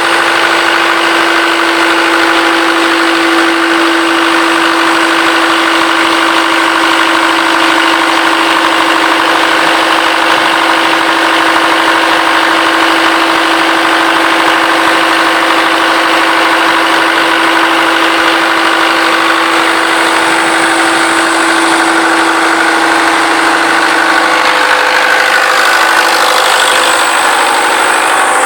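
Perkins L4 four-cylinder four-stroke diesel engine running steadily and loudly; about 24 seconds in, its main tone shifts slightly.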